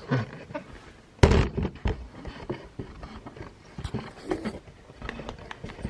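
Knocks and clanks of tools and metal car parts being handled, the loudest a heavy knock about a second in, followed by a scatter of lighter clicks and taps.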